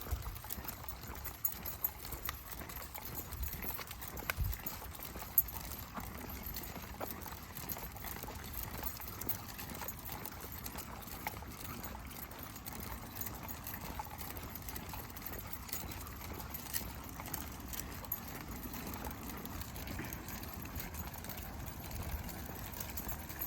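Footsteps on a trail during a walk with a pack of dogs, with many scattered small clicks and knocks and a low rumble.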